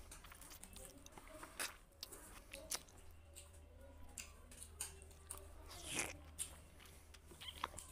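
Close-up chewing and eating by hand: wet mouth clicks and smacks, with fingers mixing rice and curry on a plate. One louder wet smack comes about six seconds in.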